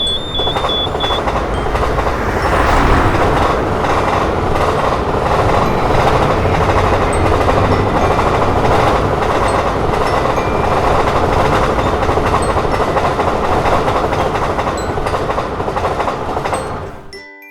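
A train passing over a railway level crossing, a loud steady rumble of wheels and carriages that cuts off abruptly just before the end. The crossing's pulsing electronic warning tone is still sounding for about the first second.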